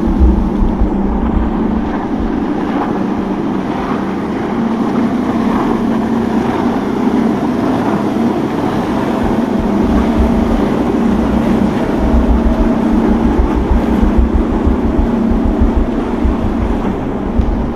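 Boat engines running steadily, with gusty wind rumble on the microphone.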